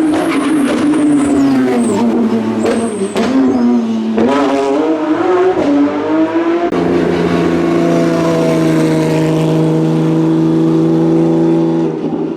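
Porsche 911 GT3 rally car's flat-six engine revving hard, its pitch falling and climbing with brief high tyre squeals. About seven seconds in it changes abruptly to a steady held note at constant revs, which drops away near the end.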